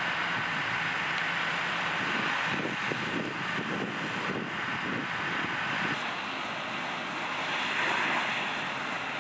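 Vehicle engine running, with a steady high whine for about the first six seconds over a rushing noise.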